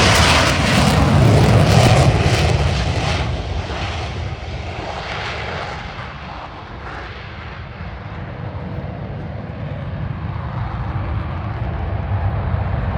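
F-35B Lightning II jet engine running loud, most likely on its conventional takeoff. The noise is strongest at first, fades over about six seconds as the jet moves away, then slowly builds again.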